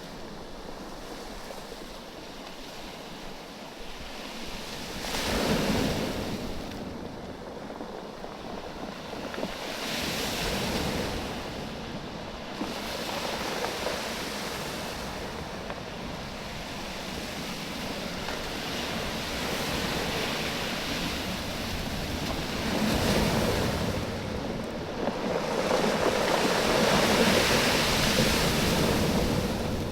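Waves surging in and drawing back over a beach of rounded oval stones, the stones clattering against each other in the wash. The surges swell about five seconds in, around ten seconds, and most strongly near the end.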